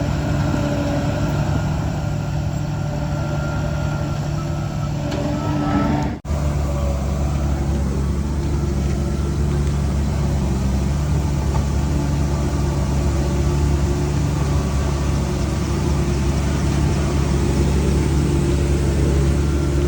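DH17C3PRO bulldozer's diesel engine running steadily with a deep, even drone. About six seconds in the sound breaks off for an instant and resumes with a heavier low rumble.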